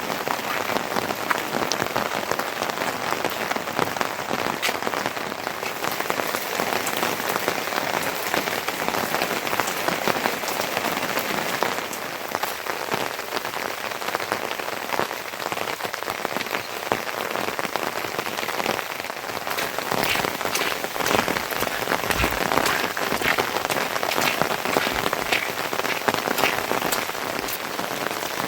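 Steady rain falling, with many separate drop hits heard as fine ticks over a continuous hiss.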